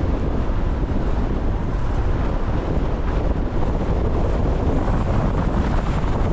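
A car driving through a rainstorm on wet city streets: a steady low rumble with a hiss of rain and wet road over it.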